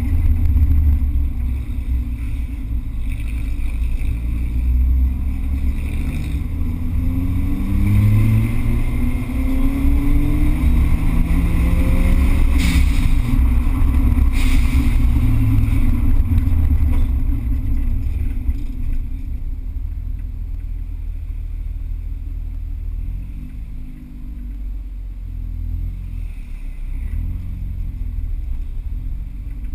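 Car engine and road noise heard from inside the cabin: the engine note rises as the car accelerates, then about halfway through it drops to a lower, quieter steady drone.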